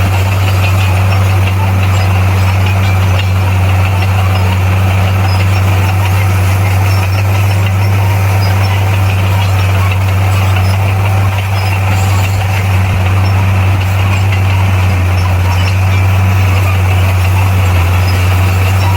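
Bulldozer's diesel engine running steadily, a deep even drone that holds without change.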